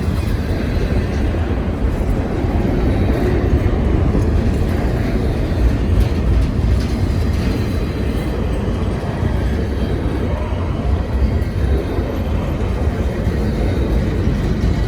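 Freight train passing close by: a steady, loud rolling rumble of the cars on the rails.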